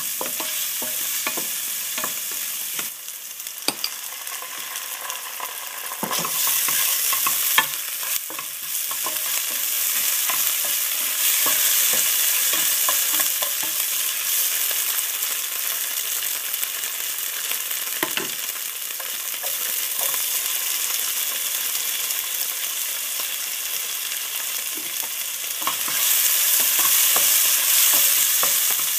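Diced onions sizzling in hot oil in a non-stick pan, stirred and scraped with a wooden spatula, with frequent short knocks of the spatula against the pan. The sizzle grows louder about six seconds in and again near the end.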